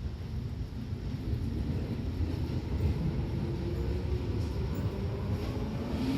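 Electric commuter train at the station platform starting to pull away: a steady low rumble, with the traction motor's whine faintly rising in pitch near the end as it accelerates.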